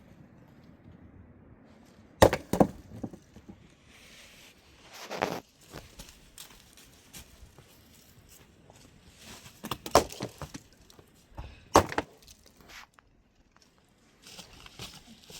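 Scattered sharp knocks and cracks, like wood being struck: a quick cluster about two seconds in, a softer one around five seconds, and single sharp knocks near ten and twelve seconds.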